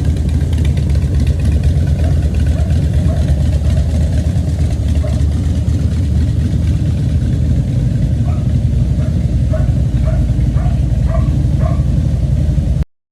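Harley-Davidson motorcycle's V-twin engine idling steadily. A string of short, higher chirps repeats about twice a second over it for the last few seconds. The sound cuts off suddenly near the end.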